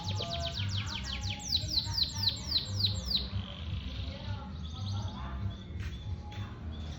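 Domestic canary singing: a rapid series of repeated down-sweeping whistled notes for about three seconds, then scattered short chirps, over a steady low hum.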